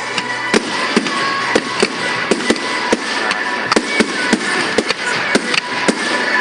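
Fireworks display: a rapid, irregular string of sharp bangs and cracks, several a second, over continuous crackling.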